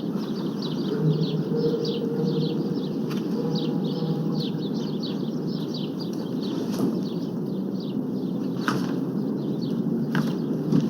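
Outdoor ambience: many small birds chirping in quick, repeated short calls over a steady low rumble, with a few sharp ticks near the end.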